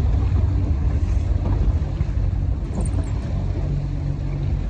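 A boat's motor running steadily under a heavy rumble of wind on the microphone.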